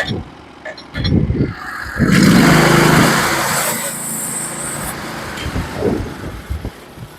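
Portable sawmill's engine running at idle, with knocks about a second in and a loud stretch of engine sound and hiss from about two to five seconds in.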